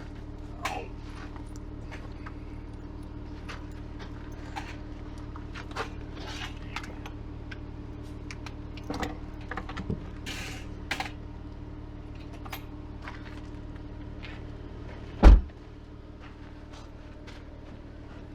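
Vehicle engine idling steadily, with scattered light clicks and metallic rattles over it and one loud, heavy thump near the end.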